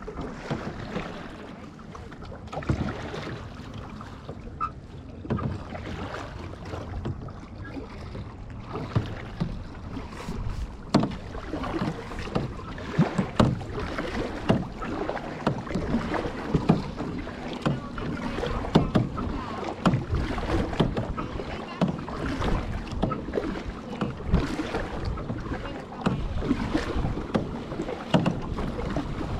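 Kayak paddling on a lake: paddle blades dipping and splashing in the water, with irregular short knocks and drips over a steady wash of water noise.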